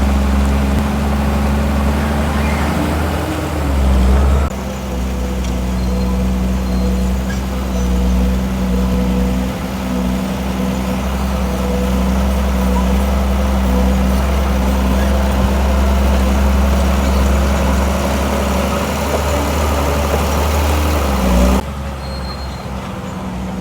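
Diesel engine of heavy earth-moving machinery running steadily, with the sound changing abruptly twice, about four seconds in and near the end.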